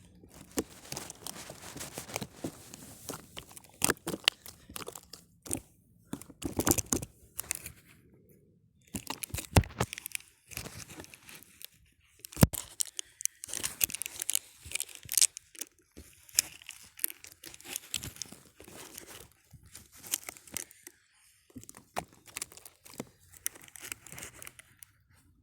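Crinkly material such as paper or plastic being handled, crumpled and torn, with irregular sharp clicks and taps and a few short pauses.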